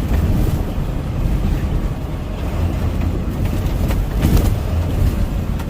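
Semi truck's diesel engine and road noise heard inside the cab, a steady low drone while driving, with a brief louder noise about four seconds in.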